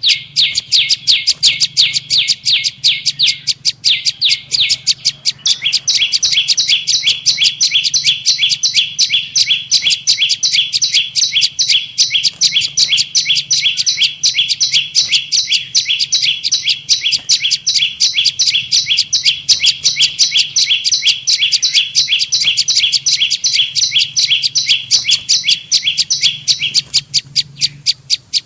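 Prenjak lumut (a small Indonesian prinia-type warbler) calling in a continuous, rapid run of high chipping notes, several a second without a pause. It is played as a lure call for trapping birds.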